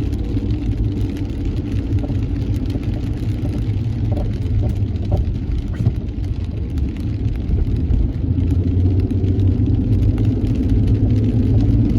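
A car driving, with a steady low engine and road rumble, getting a little louder in the last few seconds.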